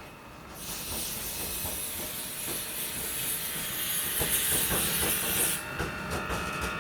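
Train with a loud hiss that starts suddenly and cuts off about five seconds later, over irregular clicks and knocks of wheels on rail.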